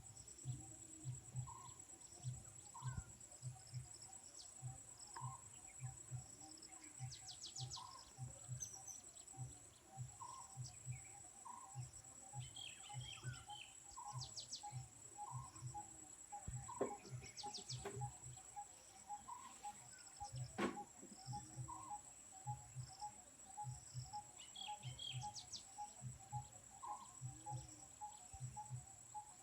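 Outdoor natural ambience: a steady high-pitched insect drone, with scattered short bird chirps and a regular run of soft low pulses underneath.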